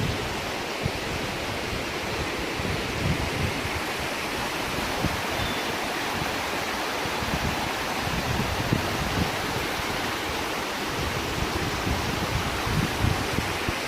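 Steady rush of the Keila waterfall and the river below it, with irregular low rumbles underneath.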